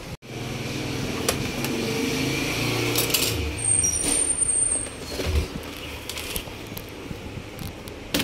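Screws being taken out of a laptop's bottom panel: a steady whir lasts about five seconds, with clicks, then it goes quieter with scattered clicks.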